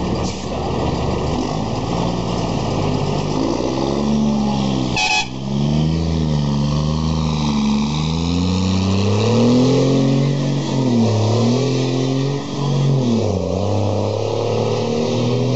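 Heavy diesel truck engine pulling hard through the gears: the revs climb, drop back at each shift and climb again. There is a short burst of hiss about five seconds in.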